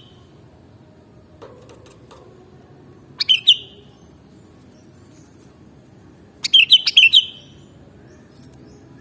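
Sooty-headed bulbul (kutilang) singing two short bursts of bright, quick notes: a brief phrase about three seconds in and a longer one of several notes about six and a half seconds in.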